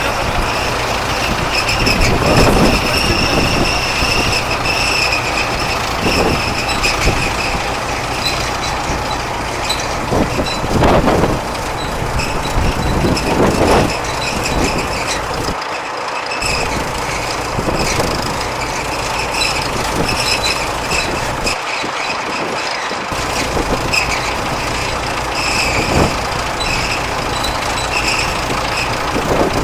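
Diesel engine of a 1985 Versatile 256 articulating tractor running steadily with a faint high whine over the rumble. The sound briefly drops out twice, about halfway through and again a few seconds later.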